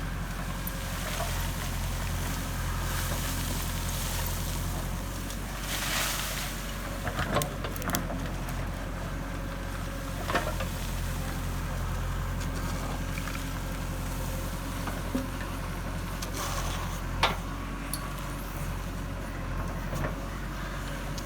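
JCB 3DX backhoe loader's diesel engine running steadily, with a burst of hiss about six seconds in and a few sharp knocks and clanks from the loader working.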